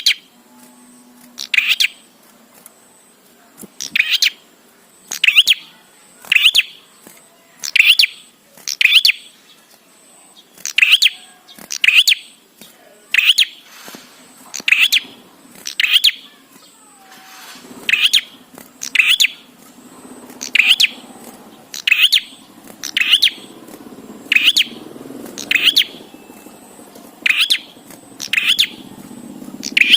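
A prenjak, a small prinia-type songbird, calling in a lively run of loud, sharp chirps repeated about once a second. A faint low background murmur comes in about halfway through.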